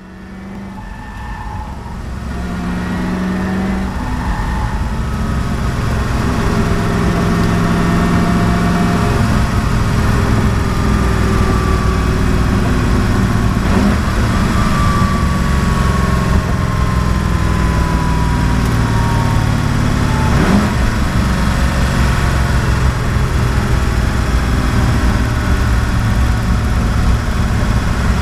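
Koenigsegg One:1's twin-turbo V8 running, fading in over the first few seconds and then loud and steady, with a thin tone gliding down about halfway through.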